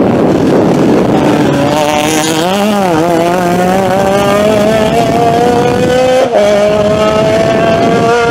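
Rally car engine run hard. Its pitch dips briefly about two and a half seconds in, then climbs steadily, with a sharp drop for an upshift just after six seconds before rising again.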